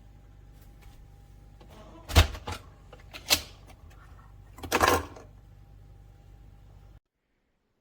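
A few sharp clicks and knocks over a low steady hum, the last a short cluster of clacks, then the sound cuts out abruptly.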